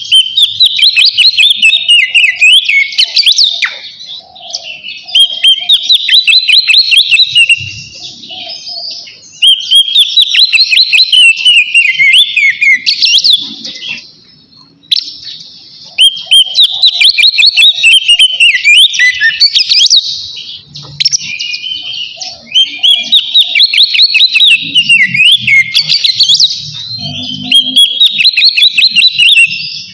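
Oriental magpie-robin (kacer) singing its loud, open full song, the kind that calls out a rival. Long phrases of rapid, varied whistles and trills are broken by short pauses every few seconds.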